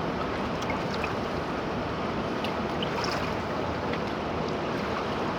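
River water rushing, a steady even noise, with a few faint short high-pitched blips scattered through it.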